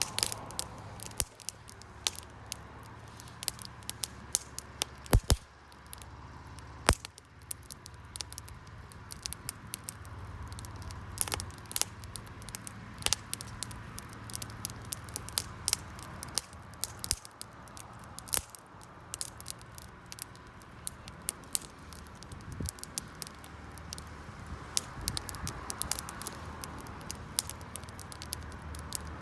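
Wood fire crackling, with irregular sharp snaps and a couple of louder pops about five and seven seconds in.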